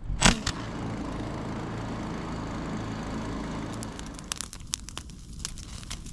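An engine running steadily for about four seconds, then a run of sharp crackles and clicks.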